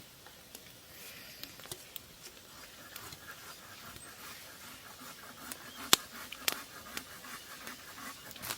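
Wood fire crackling, with scattered sharp pops over a faint hiss; the loudest pops come about six seconds in and just before the end.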